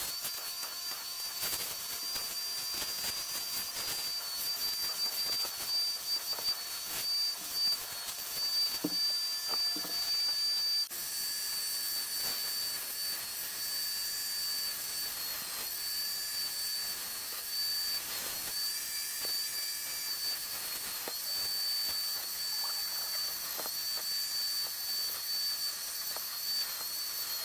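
Fabric cleaning machine running its suction, a steady high-pitched whine over a continuous hiss, as it draws the dissolving water and dirt back out of a thick sponge cushion. The hiss brightens about a third of the way in.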